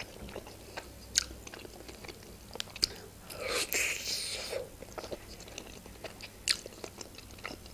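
Close-miked biting and chewing of a khinkali, a Georgian meat-filled dumpling, with wet mouth noises and a few sharp clicks. About three and a half seconds in, there is a longer, louder stretch of biting and chewing.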